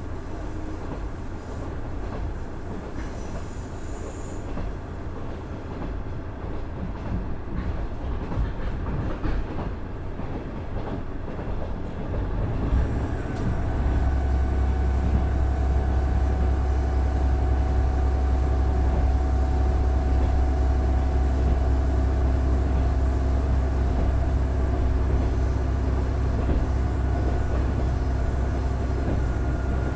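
Running sound heard inside a KiHa 110-200 series diesel railcar, whose Cummins DMF14HZA diesel engine (420 PS) works under the floor. Track and wheel noise rumble steadily at first; about 12 seconds in, the engine comes up to power and sets up a loud, steady low drone with a humming tone over it.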